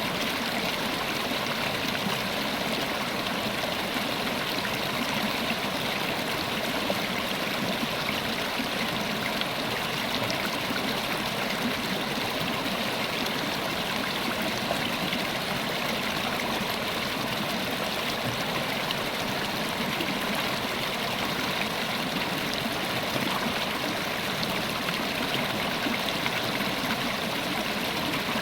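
River water flowing steadily over stones, an even rushing babble with no change.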